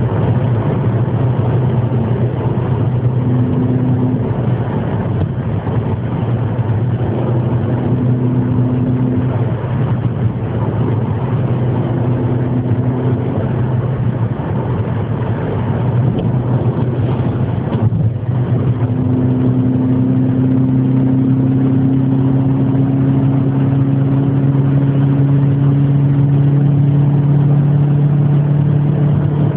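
Car engine running at a steady low speed, its exhaust note holding even, then slowly rising a little in pitch through the second half.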